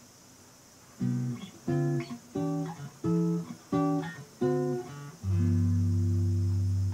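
Acoustic guitar playing a bossa nova style intro. It comes in about a second in with six short plucked chords roughly two-thirds of a second apart, then lets a last chord ring out near the end.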